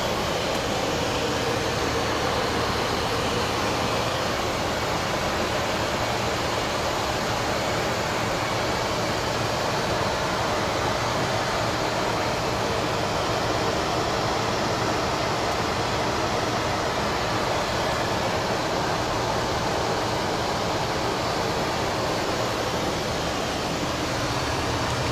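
Steady flight-deck noise of a twin-engine jet cruising at 35,000 feet on autopilot: a constant rush of air with a faint low hum underneath, unchanging throughout.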